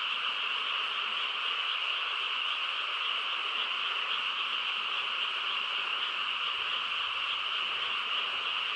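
A dense chorus of many frogs croaking together, blending into a steady, unbroken wall of sound.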